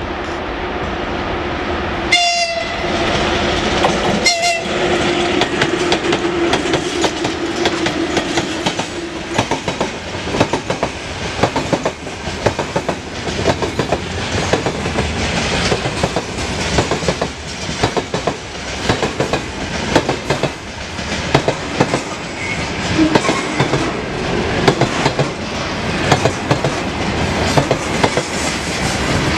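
VL11.8 electric locomotive hauling a freight train: two short horn blasts about two seconds apart, then a long run of freight wagons' wheels clattering rhythmically over the rail joints as the train rolls past.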